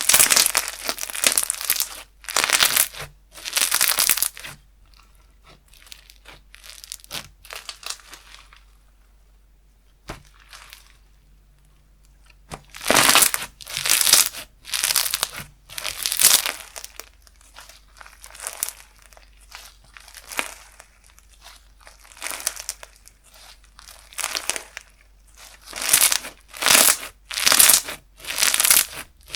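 Slime being squeezed, pressed and stretched by hand, giving crackly, squishy bursts roughly once a second, with a quieter, sparser stretch in the middle.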